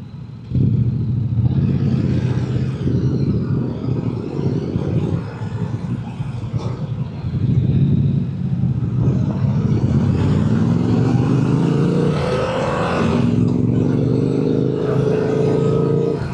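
Motorcycle engine running under way, heard from the rider's position. The engine holds a steady note, then rises in pitch twice in the last few seconds as the bike accelerates.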